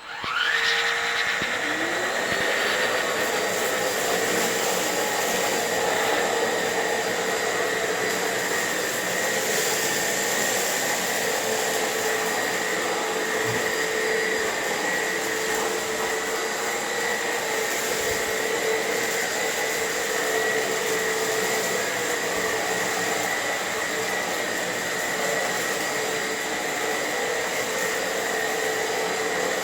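Electrolux WellQ7 cordless stick vacuum switched on, its motor spinning up with a rising whine over the first second, then running steadily with a high whine over a rushing airflow as it vacuums the floor.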